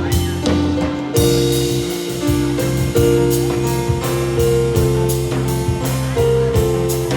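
Live band playing an instrumental passage in a jazz style: keyboard, electric bass and drum kit, with held melody notes over a steady bass line and regular drum strokes.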